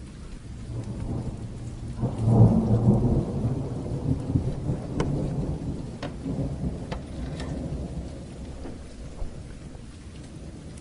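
A roll of thunder over steady rain: the rumble swells about a second in, is loudest around two to three seconds, and dies away slowly. A few sharp pops from a crackling fire sound through the rain after the peak.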